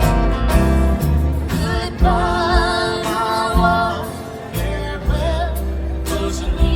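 Live country band music: bass and guitar under a held melody line with a wavering vibrato in the middle of the passage.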